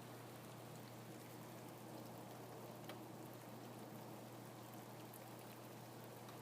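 Faint, steady rainfall, with a few separate drops striking near the middle and later on.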